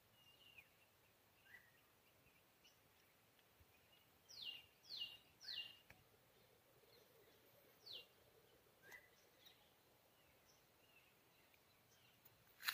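Faint wild birds calling against a near-silent background: three quick downward-sliding whistled notes about four and a half seconds in, another near eight seconds, and scattered small chirps.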